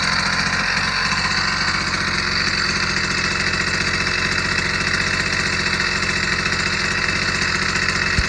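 Small engine of a motorized bicycle idling steadily on its first start-up, with a rapid, even low pulse.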